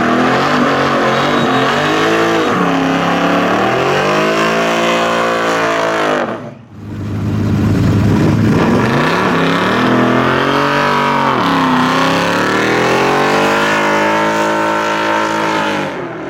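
Loud V8 muscle car engine, its pitch climbing and falling again several times as it is revved or run up through the rev range, with a sudden brief drop-out about six and a half seconds in.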